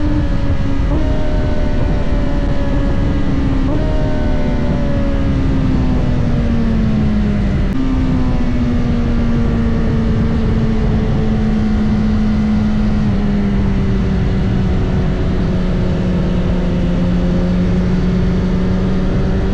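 BMW S1000RR inline-four engine heard from on the bike over heavy wind rush. Its pitch falls and jumps up twice in the first four seconds, as at downshifts under braking. It then runs at a steadier, slowly sagging and rising pitch.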